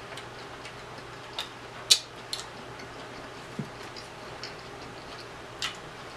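Close-miked chewing of sauce-covered rotisserie chicken with the mouth closed, with a handful of sharp mouth clicks and smacks scattered through, the loudest about two seconds in.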